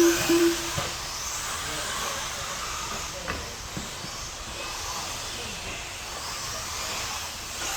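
A pack of radio-controlled mini truggies racing, giving a steady hiss of motors and tyres on the track. A short, steady beep ends within the first second, and there is a single click a little past halfway.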